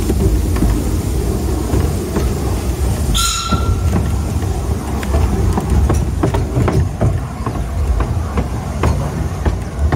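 Narrow-gauge train running, heard from on board: a steady low rumble with wheels clicking over rail joints and points. About three seconds in comes a brief high squeal, most likely wheel flanges on the curved track.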